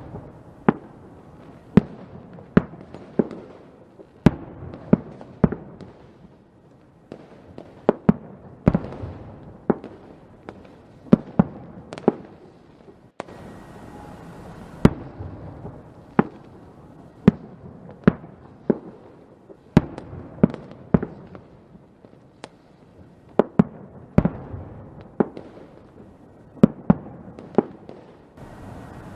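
Fireworks exploding: a run of sharp bangs at irregular intervals, about one or two a second, with rumble and crackle between them.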